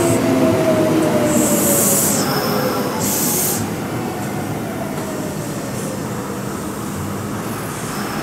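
Kintetsu electric train pulling away and receding. Its motor whine glides slowly down in pitch and fades over wheel and rail rumble, with two short high hisses about two and three seconds in.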